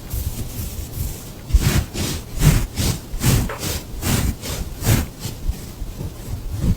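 Grooming strokes through a cat's fur: a run of rasping swishes, about two a second, from about one and a half seconds in to about five seconds in.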